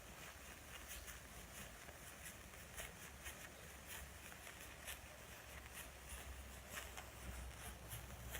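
Faint, irregular crackling of burning matches, with many small clicks as match heads flare, over a low steady hum.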